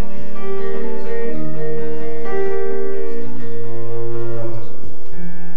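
Guitar played by plucking: single notes picked one after another over longer held bass notes, as an instrumental passage.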